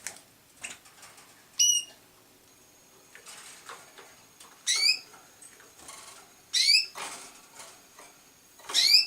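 Pet canaries calling in a cage: a short call about one and a half seconds in, then three loud rising chirps about two seconds apart, with soft rustling and fluttering between.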